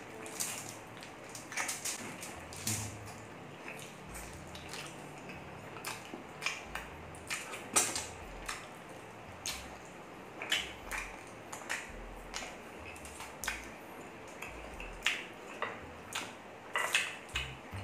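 Mouth sounds of a person eating pork ribs and rice by hand: wet chewing and lip smacks, heard as many short, irregular clicks.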